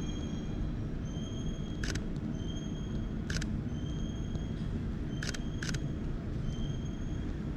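Camera shutter clicking four times: once about two seconds in, again a second and a half later, then two quick clicks close together about five seconds in, over a steady low rumble with faint high whining tones coming and going.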